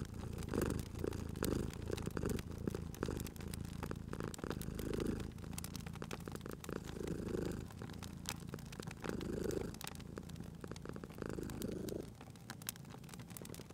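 A domestic cat purring, swelling with each breath about every two seconds, over the pops and crackles of a fireplace fire. The purr's low rumble drops away about twelve seconds in, leaving mostly the crackling.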